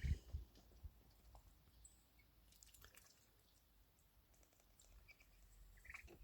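Near silence with faint, scattered clicks of young poultry pecking at sweetcorn, and a couple of soft thumps at the very start.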